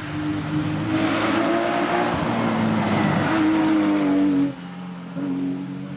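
Porsche competition car's engine at speed on a rally or hillclimb stage, its note rising and falling as it is revved, shifted and lifted off, going quieter about four and a half seconds in before picking up again.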